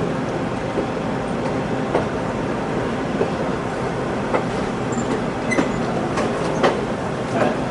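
Passenger train riding on the rails: a steady rumble with scattered clacks and knocks from the wheels and rail joints, and a few brief high squeaks about five seconds in.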